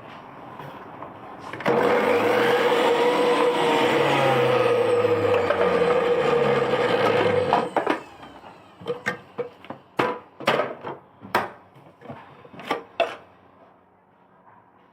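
JUILIST 400W juice extractor's motor running steadily for about six seconds, then switching off. After it stops, a series of sharp clicks and knocks follows.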